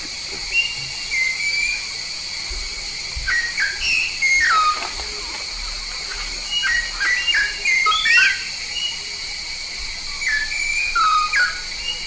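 Jalak paru kuning, a Papuan starling, calling in a run of short clear whistles and sliding notes that come in loose clusters, with a steady high hiss underneath.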